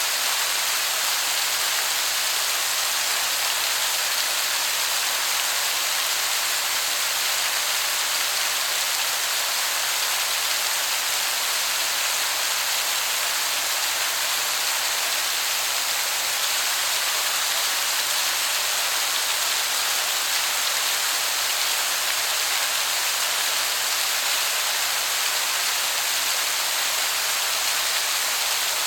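Waterfall heard from a distance, a steady hiss of falling water that sounds like heavy rain.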